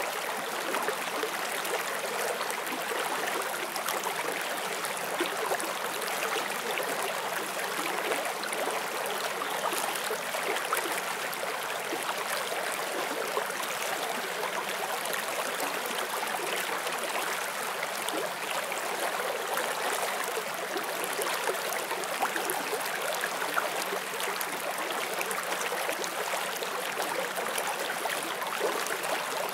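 Forest stream flowing over stones: a steady, even rush of water with fine splashing and gurgling.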